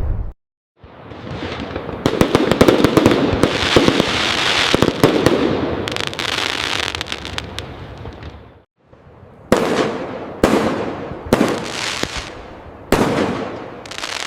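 Fireworks: a dense crackling barrage of many rapid pops for about seven seconds, which cuts off abruptly, then a string of five sharp aerial bursts about a second apart, each with a fading tail.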